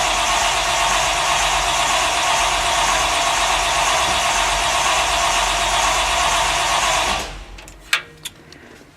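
Starter motor cranking the cold 1957 Chevy's 350 V8, which has two four-barrel carburettors and no choke, for about seven seconds without the engine catching, then cutting off suddenly. Two sharp clicks follow about a second later.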